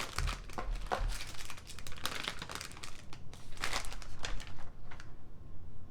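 Plastic snack bags crinkling and crackling in quick, irregular bursts as they are handled and lifted out of a box, dying down near the end.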